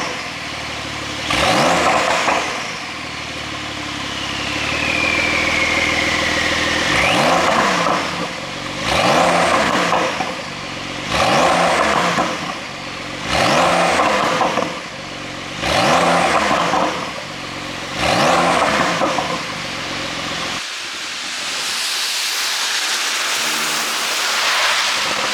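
Porsche 911 Carrera S (992) twin-turbo flat-six being free-revved with its exhaust flaps held fully open by an ECU tune: about six sharp throttle blips, roughly two seconds apart. The revving stops after about twenty seconds.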